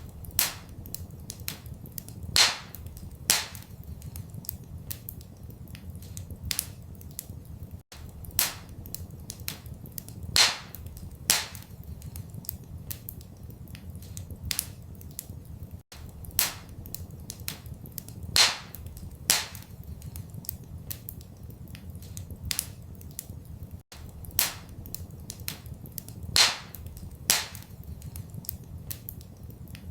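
Wood fire in a fireplace crackling, with sharp pops of varying strength over a steady low rumble. The same pattern of pops repeats every eight seconds, with a brief dropout at each repeat, as in a looped recording.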